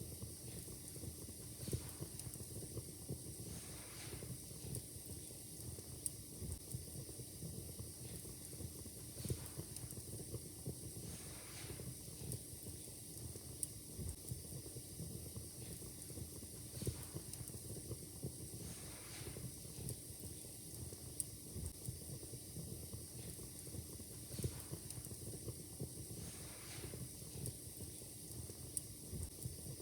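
Fire in a fireplace crackling: frequent irregular pops and clicks over a steady hiss.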